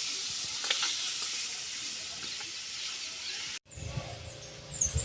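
A steady hiss of noise that cuts off suddenly about three and a half seconds in, followed by a low rumble with a few faint high chirps.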